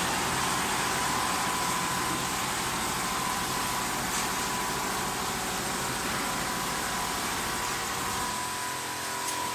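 Multi-head automatic sewing machine running: a steady mechanical whir with a thin steady high tone, its low hum dropping away near the end.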